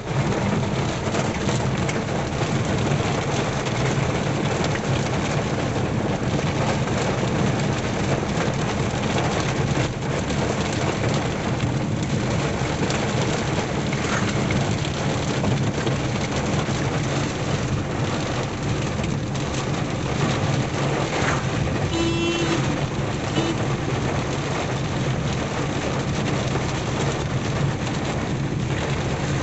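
Heavy rain drumming on an Alto 800 car as it is driven, over a steady low hum of engine and road noise. A brief pitched beep-like tone sounds twice about two-thirds of the way in.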